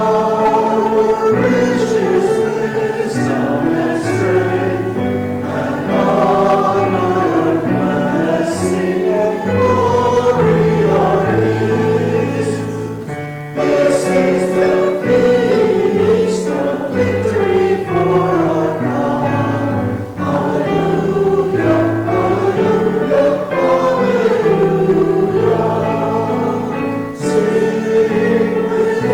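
A congregation singing a hymn in unison with piano accompaniment, in phrases with brief breaths between them.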